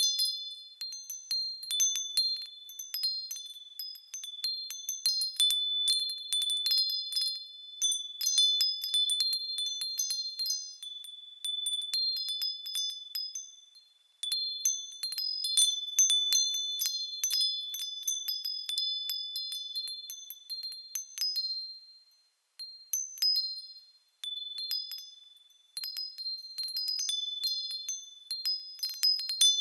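Small metal bells swaying and ringing: a continual high-pitched tinkling of many overlapping strikes and ringing tones, with nothing deep in it. It falls away briefly about halfway and again around two-thirds of the way through.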